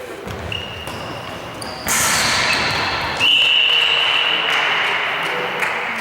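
A sudden burst of cheering and shouting about two seconds in. About a second later a long, steady, high-pitched tone joins it and holds.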